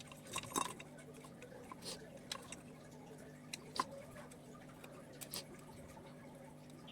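Faint, scattered short clicks and taps at irregular moments over a low steady hum.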